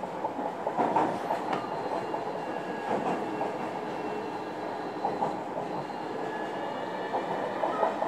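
Running noise inside a JR Kyushu 305 series electric motor car (MoHa 305-106) under way: a steady rumble of wheels on rail, a few sharp clicks in the first three seconds, and faint thin high tones above.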